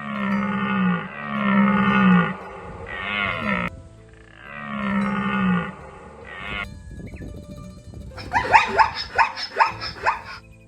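Four long animal calls, each about a second, then after a pause a quick run of short rapid calls near the end.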